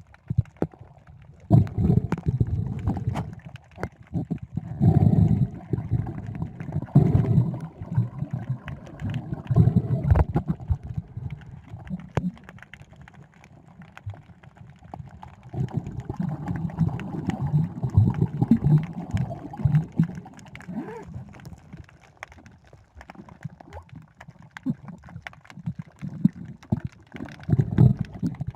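Muffled water sloshing and gurgling around a camera in the sea, in irregular surges with scattered clicks.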